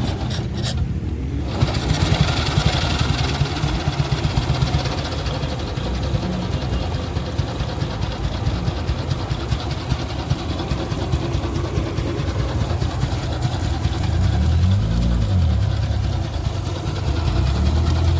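1949 AJS motorcycle engine running with a rapid, even exhaust beat. About three-quarters of the way through it is revved up once and falls back.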